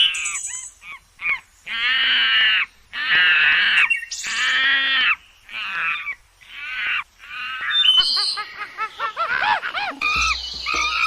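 Loud, harsh bird calls: about six long calls in a row, then a flurry of shorter overlapping calls from several birds. A low hum comes in near the end.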